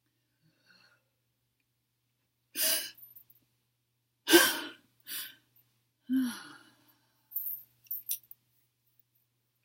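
A person taking deep breaths and sighing out loud, four times, the loudest about four seconds in. A few small clicks follow near the end.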